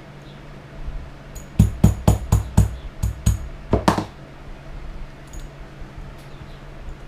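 A quick series of about nine sharp mallet blows over two and a half seconds, as a leatherworking tool is struck into heavy belt leather.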